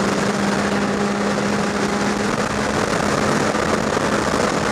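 Motorcycle engine running at a steady cruise under heavy wind rush on the rider's microphone.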